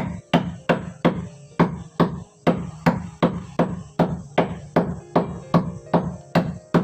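Hammer blows struck in a steady run, about three a second.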